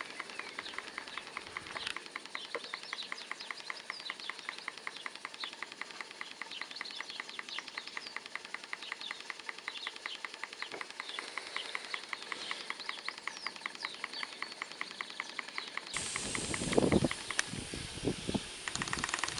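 Model steam engine based on a Stuart No. 4 (1.5" bore x 1.25" stroke) running steadily on steam, with a rapid, even chuff from its exhaust over a steady steam hiss. About three seconds before the end, a louder low rumbling noise comes in.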